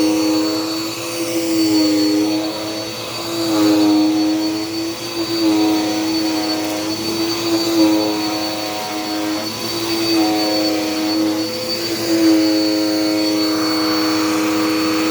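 Dirt Devil Power Max vacuum cleaner running steadily, its motor hum with a high whine over it, the pitch sagging and recovering now and then as the load changes.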